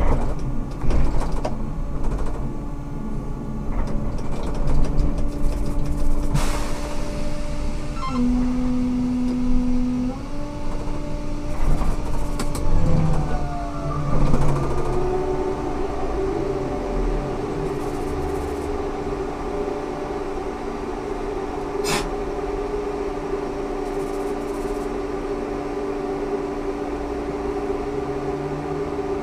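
Ikarus 280T trolleybus with GVM electrical equipment running, its electric drive giving several steady whining tones over a low rumble. The tones dip and come back, then glide in pitch as the bus changes speed, and there is a single sharp click a little past the middle.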